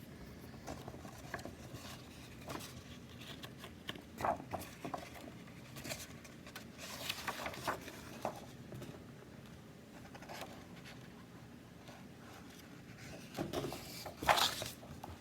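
Paper picture book being handled: soft rustling and scattered light taps and clicks, with a louder cluster of taps near the end.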